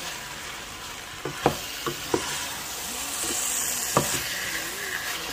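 Diced potatoes and carrots sizzling in oil in a metal pot while being stirred with a wooden spoon. The spoon knocks against the pot several times, sharpest about a second and a half in and again near four seconds.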